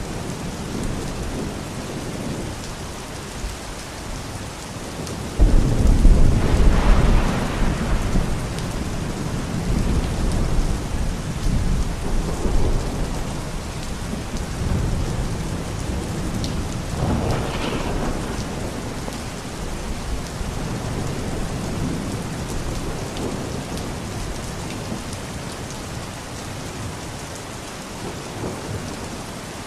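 Steady rain with thunder: a loud rumble breaks in suddenly about five seconds in and rolls on for several seconds, and a second, weaker rumble follows near the middle.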